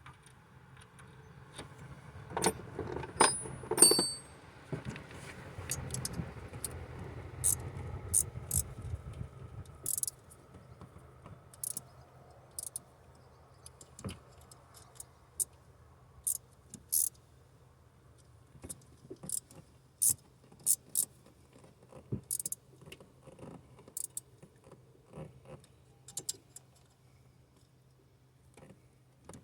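Hand tools and small metal parts clinking: a few sharp metallic clinks with a brief ringing about two to four seconds in, then scattered light clicks and taps while working on a broken exhaust stud.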